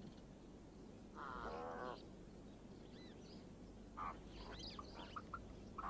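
Birds calling: one harsh, drawn-out call about a second in, then a run of short chirps and whistles from about four seconds on.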